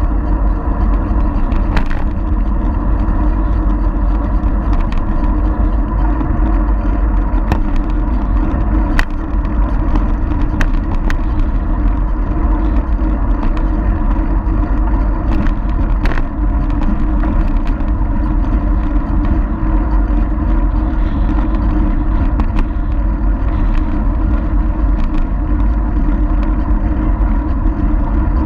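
Steady loud rumble of wind and rolling-bicycle road noise picked up by a GoPro riding along on the bike, with a few sharp clicks and rattles from the bicycle scattered through.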